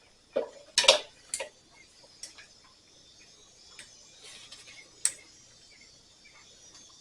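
Scattered sharp metal clicks and clinks of a clamp being fitted to pinch off a mower's fuel line, the loudest about a second in, then a few fainter ticks spread out.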